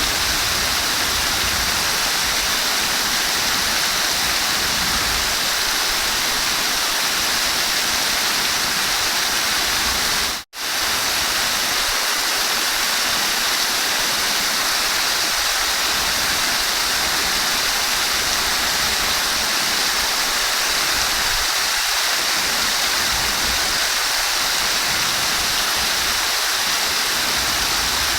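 Running water rushing steadily with a dense, even hiss. The sound drops out for a split second about ten seconds in.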